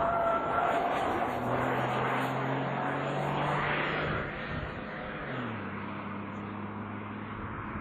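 Small Kia Morning (Picanto) race car's engine at full throttle as the car passes and pulls away, loudest at the start and fading. The engine note steps down in pitch about five seconds in and holds steady.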